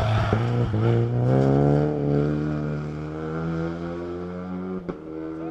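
Rally car engine pulling hard, its pitch climbing and then holding as it fades off into the distance. A couple of short sharp cracks come just after the start and near the end.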